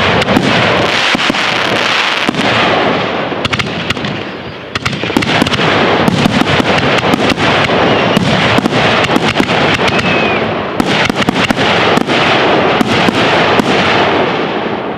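Aerial fireworks display going off: a dense, continuous run of bangs and crackling. It eases briefly about four seconds in, then builds again.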